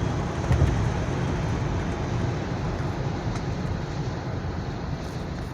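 2004 Lexus LX470 heard from inside while driving: a steady low engine and road rumble that slowly gets quieter, with one thump about half a second in.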